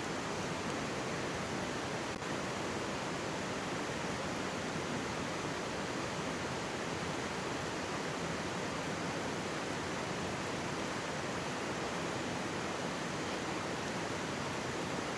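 Steady rushing and babbling of a mountain stream, with a single faint click about two seconds in.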